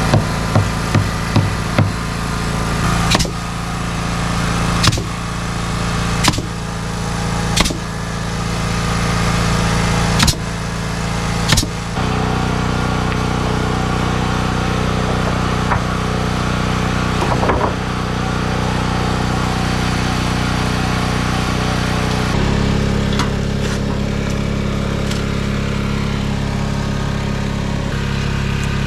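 A small engine runs steadily, with a series of sharp hammer-like strikes over it: four in quick succession at the start, then one about every second and a half until near the halfway point. After that only the engine is heard, and its pitch shifts about two-thirds of the way through.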